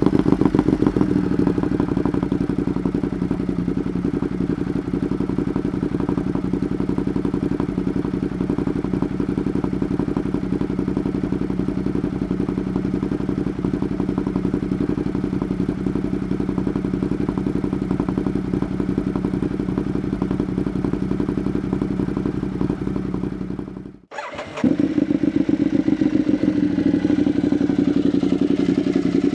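Ducati Monster 1200's L-twin engine idling through an SC-Project CRT slip-on exhaust, a steady, even beat. It breaks off for a moment about 24 seconds in and picks up again at the same steady pace.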